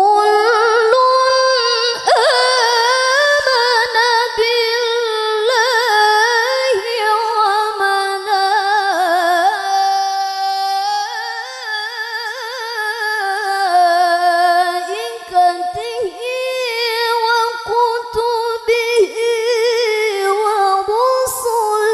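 A woman's voice reciting the Quran in the melodic qiroah (tilawah) style. It is one long ornamented phrase full of trills and pitch turns, held on without a break.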